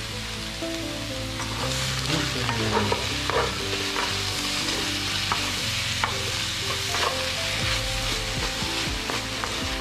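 Food sizzling as it fries in hot oil in a pan, with a utensil clicking and scraping against the pan as it is stirred.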